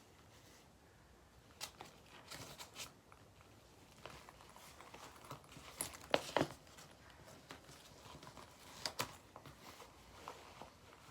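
Faint clicks, clacks and rustles of makeup brushes being handled and tucked into a makeup bag's brush slots: a few light clicks about two seconds in, the loudest knocks about six seconds in and another near the nine-second mark.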